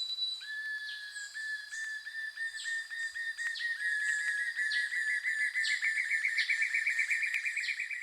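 Birdsong: one bird repeats a short, slightly falling note faster and faster, reaching a rapid run near the end. A second bird gives higher falling notes about once a second.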